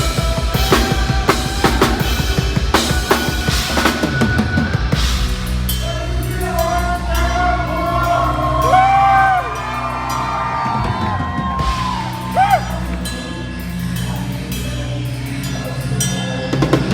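Live heavy metal band playing loud: fast drumming with bass drum and snare for the first few seconds, then the drums drop out under held low bass notes while high bending guitar notes slide up and down, and the full drum kit comes back in near the end.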